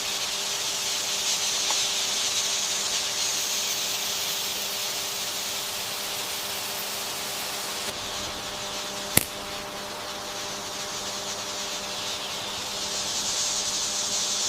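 Steady, dense hiss of rainforest ambience, strongest in the high range, with one sharp click about nine seconds in.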